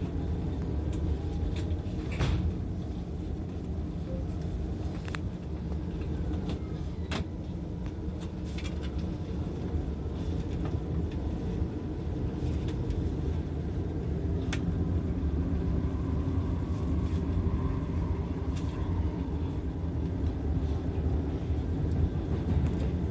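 Steady low rumble of a passenger train running, heard inside the carriage, with a few sharp clicks and knocks now and then.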